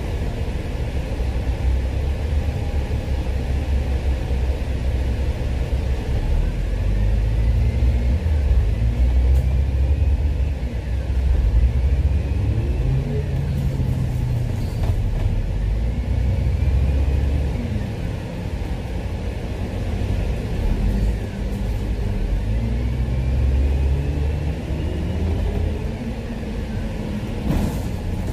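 Dennis bus engine and transmission heard from on board: a low rumble with the pitch repeatedly rising and dropping back as the bus accelerates through its gears, with a faint rising whine above it. A sharp click near the end.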